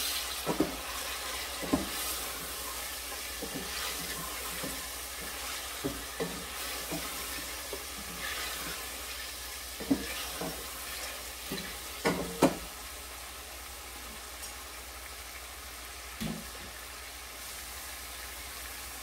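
Chicken and dry spices frying in a stainless steel pot with a steady sizzle, stirred with a wooden spoon that knocks against the pot now and then, most sharply around ten and twelve seconds in.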